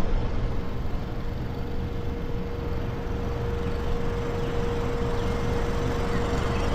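Boat motor running steadily: a constant whining tone over an even rumbling noise.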